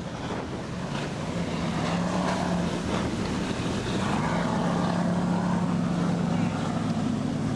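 Motorboat engine running steadily, its hum growing louder over the first few seconds and then holding, with wind and water splash around it.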